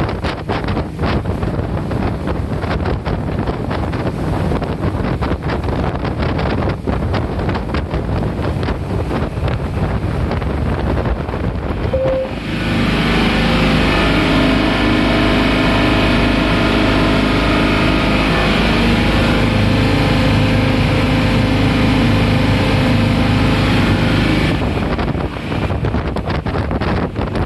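Nori fishing boat running under way, with wind buffeting the microphone. About halfway through, the boat's engine drone comes up louder and steady for some twelve seconds, then drops back under the wind and water noise.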